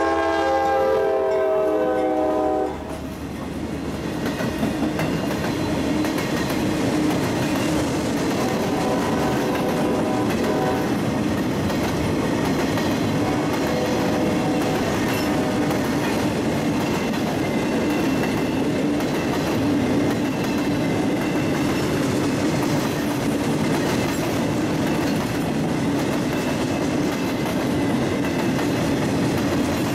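Locomotive horn sounding a chord of several tones, cut off about three seconds in. A train then keeps rolling past, its wheels clattering steadily over the rails.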